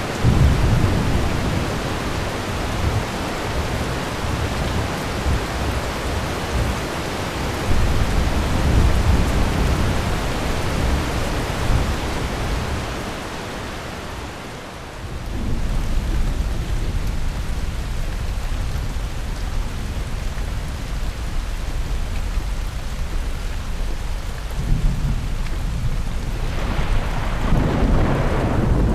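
Thunderstorm: steady rain with rolling thunder. A rumble breaks right at the start and another about eight seconds in; the storm dies down briefly around halfway, then the thunder rumbles on again through the rest.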